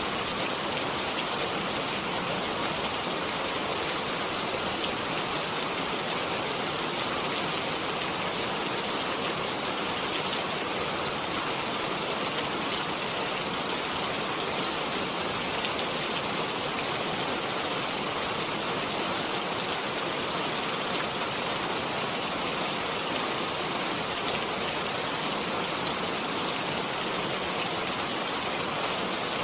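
Steady rain falling, an even hiss with fine scattered drop patter, unchanging throughout.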